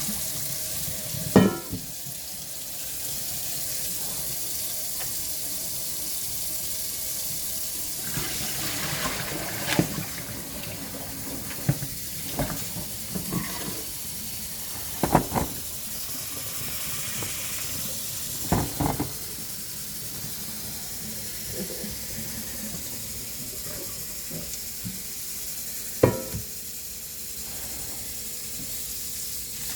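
Kitchen tap running into a sink while raw pig feet are washed, with scattered knocks and clunks of the feet and pot against the sink, the loudest about a second in.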